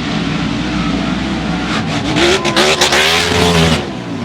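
Mud truck engine running hard at high revs. Its pitch climbs about two seconds in, under a loud rush of noise that stops sharply near the end.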